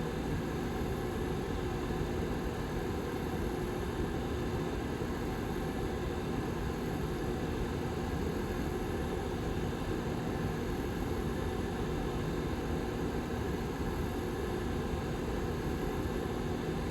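Lasko 755320 tower heater's rear fan running: a steady rush of air with a faint steady hum underneath.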